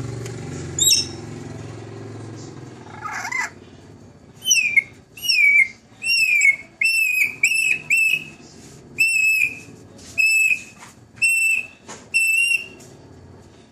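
Pet bird whistling a series of about ten clear notes, each roughly half a second long, some sliding down in pitch. A fading engine hum lies under the first few seconds.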